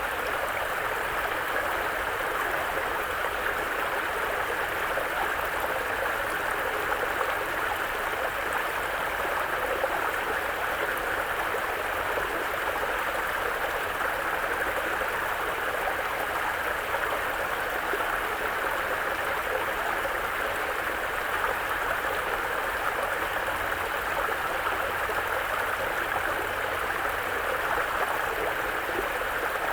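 A mountain brook running over rocks: a steady, unbroken rush and babble of flowing water.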